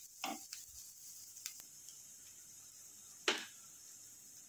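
Faint, steady sizzle of chopped cabbage and onion frying in oil in a pan, with a few knocks of a wooden spatula against the pan, the loudest about three seconds in.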